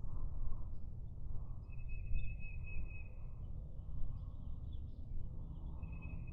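Woodland ambience at dawn: a small songbird sings a high, steady trill twice, each about a second and a half long, the second near the end, among a few faint chirps over a low rumble.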